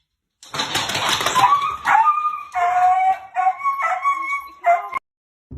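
A dog vocalising: a harsh, noisy opening, then a run of about five short, high-pitched yelping cries that stops suddenly near the end.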